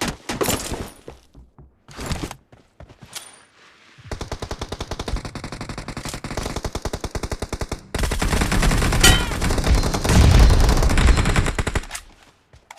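Video game automatic gunfire: a few scattered shots, then steady rapid fire from about four seconds in. It grows louder and heavier from about eight seconds in and stops shortly before the end.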